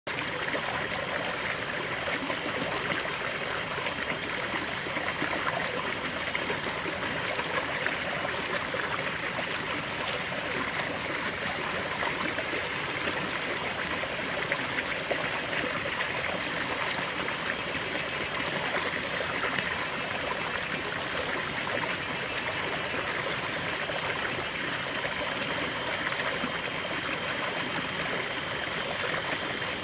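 Small waterfall and stream flowing in a steady, even rush with a splashing, trickling texture.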